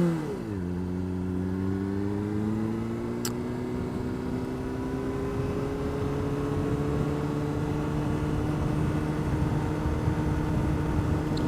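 Honda CBR600RR's inline-four engine running in gear at low revs: the pitch drops about half a second in, then rises slowly and evenly as the bike gently gathers speed. A single click about three seconds in.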